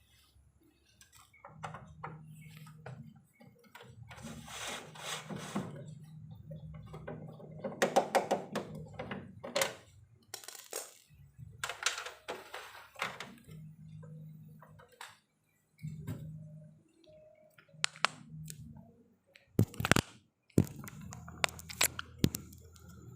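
Clicks, knocks and rattles of hands and tools working on a CRT television set, with several sharp knocks near the end. A low hum comes and goes.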